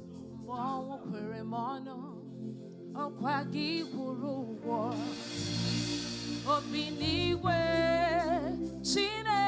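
Live gospel praise band: a singer vocalizes with vibrato over sustained keyboard chords. About five seconds in, a cymbal swell and a deep bass come in, and the singing grows fuller toward the end.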